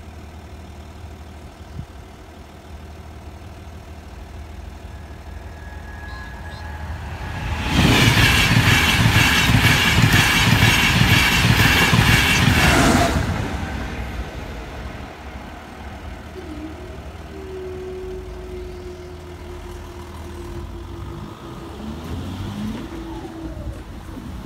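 Express passenger train on the Leeds to London service approaching and passing at speed. It is loud for about five seconds with a rapid rhythmic clatter of wheels, then fades away.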